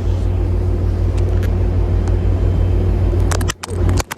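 Diesel locomotive of a commuter train pulling out of the station, a steady low engine rumble. Near the end there are a few sharp clicks, and the sound briefly drops out.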